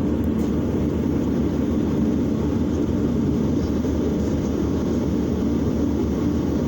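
Steady drone of a propeller airliner's engines and airflow heard inside the passenger cabin, low and even throughout.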